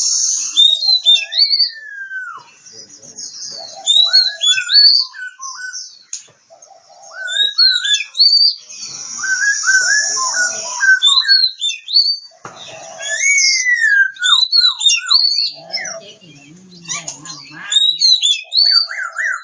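Oriental magpie-robin (kacer) singing a varied song: quick whistled notes, rising and falling slurs and a few longer falling whistles, mixed with harsh hissing bursts.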